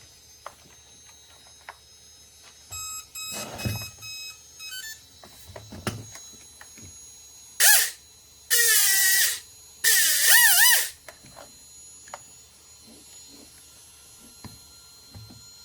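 Small brushless electric motor run up in three short bursts, its whine gliding up and down in pitch, after a few short electronic tones.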